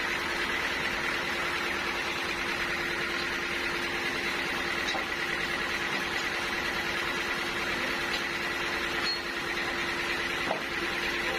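Sawmill machinery running steadily: a constant hum with a couple of faint clicks.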